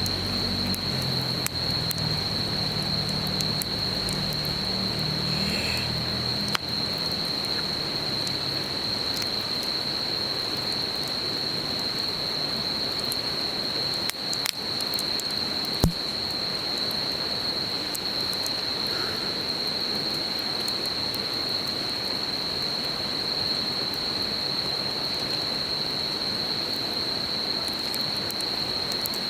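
Campfire crackling with scattered pops, the sharpest about halfway through, over the steady rush of a river and the unbroken high-pitched drone of insects. A low engine-like hum, likely distant traffic, lies under it for the first several seconds and fades.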